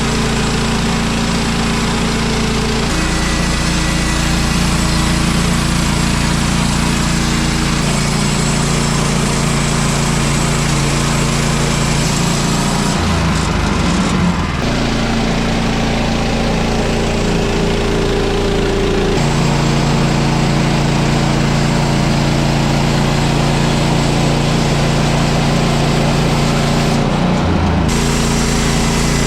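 Gas engine of a portable bandsaw sawmill running steadily under load while sawing a Douglas fir log; its note steps up and down several times.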